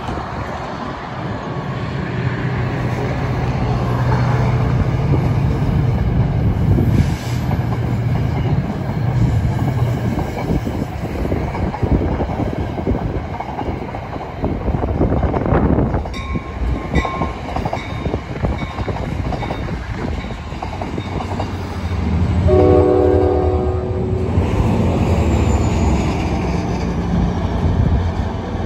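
Diesel commuter train passing close by, steady rumble with wheels clattering over the rails. About 23 seconds in, a locomotive horn sounds briefly.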